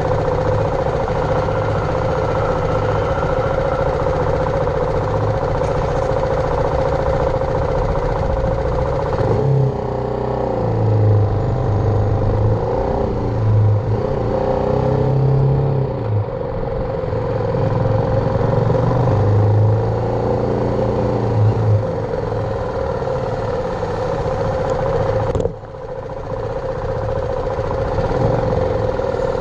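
BMW G310R's single-cylinder engine running under way. About ten seconds in, its pitch rises and falls several times through the revs and gear changes, and there is a brief drop in level near the end.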